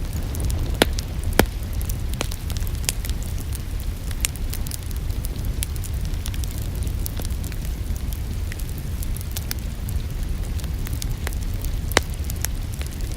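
Wood fire crackling in a fireplace: many sharp pops and snaps, a few louder ones near the start and near the end, over a steady low rumble of the flames, with rain falling.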